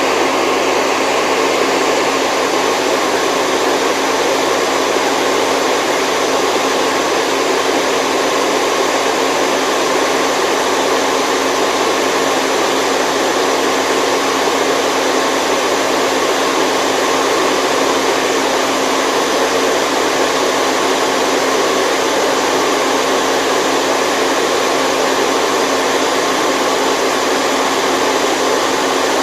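Steady white noise for baby sleep: a dense, even hiss with little bass that does not change.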